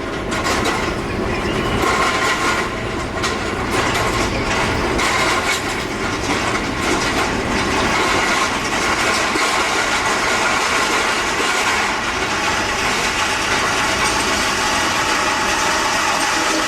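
Jet airliner engines running: a steady rushing noise with several steady whining tones over it, and a few faint clicks in the first seconds.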